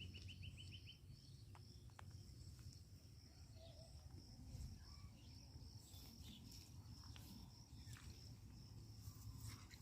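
Faint outdoor quiet with a steady high insect trill throughout, a low hum beneath it and a few small clicks, opening with a brief rapid series of chirps.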